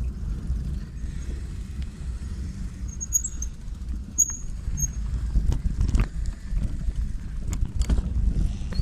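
Bicycle riding over a rough dirt track: a steady low rumble of wind and ground noise, with knocks and rattles as it goes over bumps and a few brief high squeaks about three to five seconds in.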